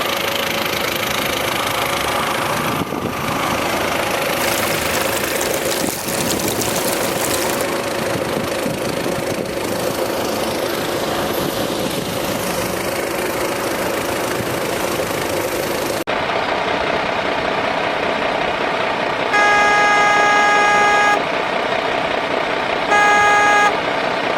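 A steady mechanical running noise, with a vehicle horn honking twice near the end: one long honk of about two seconds, then a short one.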